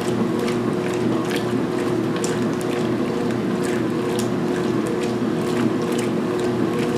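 2016 Speed Queen top-load washer agitating a load of towels during its main wash: a steady motor and transmission hum, with irregular swishes of water and laundry about once a second.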